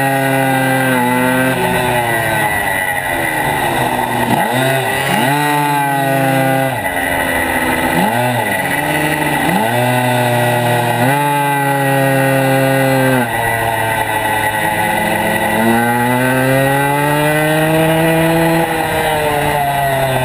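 Motorcycle engine under hard riding, heard from a camera on the bike: the revs climb under acceleration, drop suddenly at gear changes, and swoop down and back up several times as the rider brakes and accelerates again.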